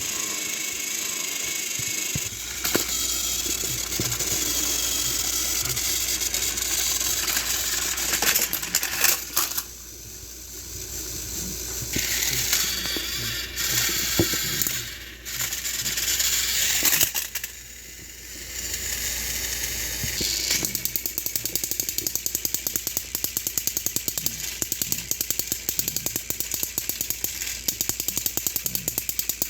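Battery-powered Thomas & Friends TrackMaster toy engines running, their small motors and gears giving a hissing whir with clicking and rattling. About two-thirds of the way in, the sound settles into a fast, even clicking.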